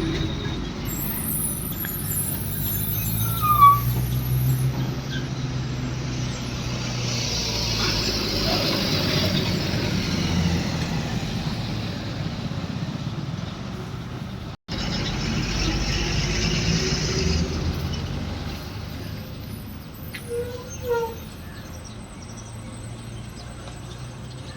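Heavy loaded truck's diesel engine running at low speed with road noise as it eases over a speed breaker, with a short brake squeal about three and a half seconds in. The sound cuts out for an instant midway, then the engine fades somewhat toward the end.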